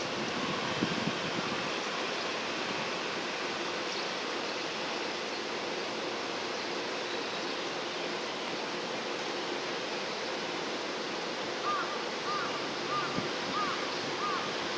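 Steady rushing outdoor noise, and about three-quarters of the way in a black kite gives a faint run of short, quavering whistled notes, the trilling 'hyororo' part of its call.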